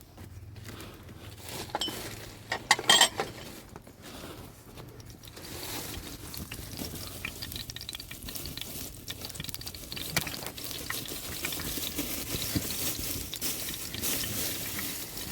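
Kitchen utensils and dishes clattering, with a sharp burst of clinks about three seconds in, then a steady hiss, as of food cooking, that lasts to the end.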